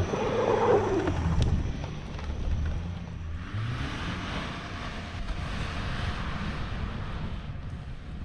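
Car driving through deep, unplowed snow under throttle: the engine runs hard, rises in pitch about three and a half seconds in, and a steady rushing hiss joins it before easing off near the end.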